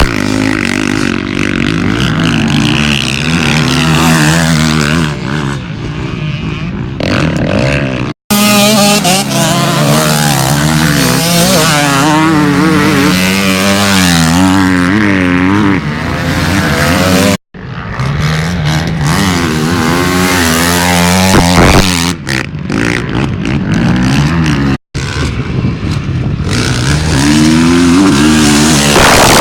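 Motocross bike engines revving up and down hard, the pitch rising and falling again and again as the bikes ride the track. The sound cuts out abruptly three times, a split second each, where the footage is edited.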